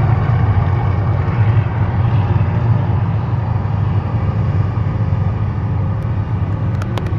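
Mirage volcano eruption effect: a loud, deep, steady rumble with flame effects. Just before the end a run of sharp claps begins.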